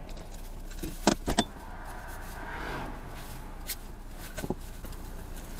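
Inside a car: two sharp clicks a little after a second in, then a few fainter ticks over a low, steady car hum.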